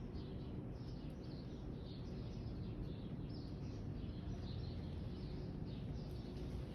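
Small birds chirping repeatedly, short high falling notes several times a second, over a steady low rumble of background noise.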